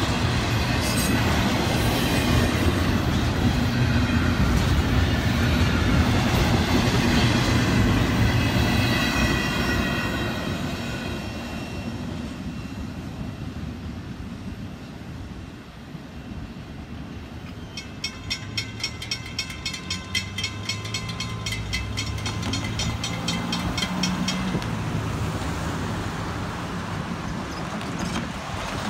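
Double-stack intermodal freight cars rolling past, wheels clacking with faint high squeals, fading as the train draws away. About halfway through, a grade-crossing bell rings in quick regular strokes for several seconds, and a car's passing noise rises near the end.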